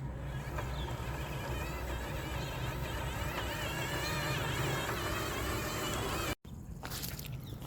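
Radio-controlled off-road truck's electric motor whining as it drives, the pitch wavering up and down with the throttle over a steady low hum, broken by a sudden cut near the end.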